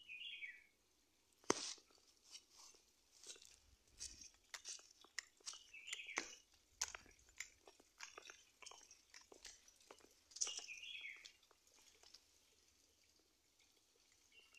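A bird gives a short, falling call, repeated every few seconds. Irregular crunching clicks run throughout.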